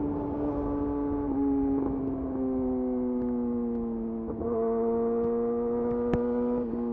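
Yamaha YZF-R6 inline-four engine with a de-catted Akrapovic slip-on exhaust, running at steady high revs while riding. Its note slowly drops in pitch, with a few brief hitches along the way.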